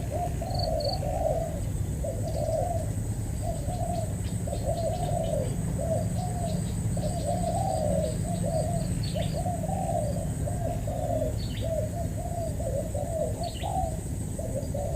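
Spotted dove cooing over and over, one phrase straight after another. Faint high chirps of small birds come in here and there over a steady high insect-like whine.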